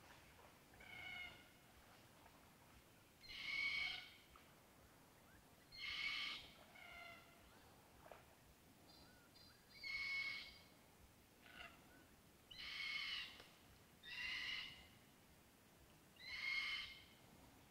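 A bird calling over and over: about seven short calls with a clear pitch, each under a second and spaced about two seconds apart, with a few fainter calls between them.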